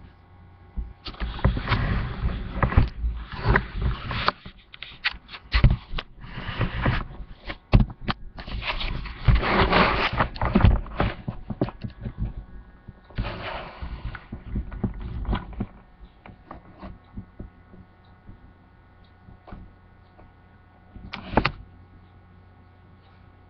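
Guinea pig eating a tomato: irregular bursts of close clicking, crunching and rustling with low thumps. The bursts thin out after about sixteen seconds, with one more short burst near the end.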